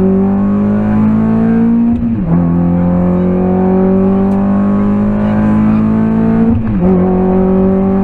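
VW Lupo GTI's four-cylinder engine heard inside the cabin, accelerating: its pitch climbs steadily and drops sharply at two upshifts, about two seconds in and again near seven seconds.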